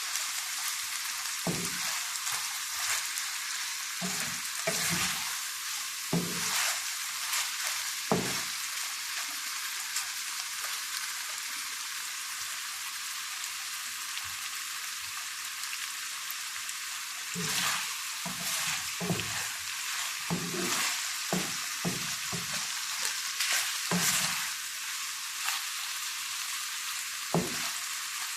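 Chicken frying in oil in a pan, with a steady sizzle. A spoon or spatula stirs it, scraping and knocking against the pan in irregular clusters.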